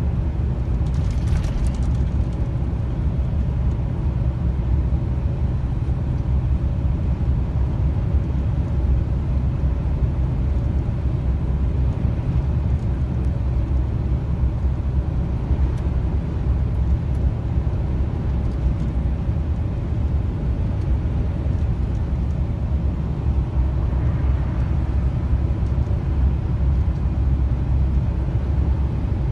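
Steady low rumble of a long-haul truck on the move, heard from inside the cab: engine drone and road noise, unchanging throughout.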